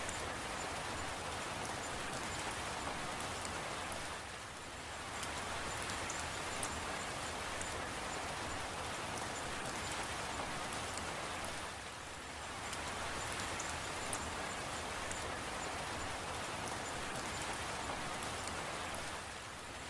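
Steady rain falling, with fine raindrop ticks on a surface over an even hiss. The rain dips slightly in level three times, about every seven to eight seconds.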